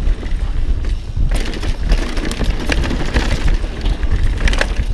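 Mountain bike being ridden over rough trail: a constant low rumble of wind and ground noise on the helmet camera, with a run of sharp clicks and clatters from the bike and tyres over rocks from about a second and a half in.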